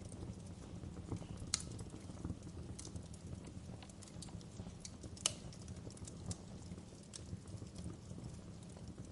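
Wood fire crackling in a fireplace: irregular sharp pops and snaps, two of them louder, about one and a half and five seconds in, over a steady low rumble mixed with rain.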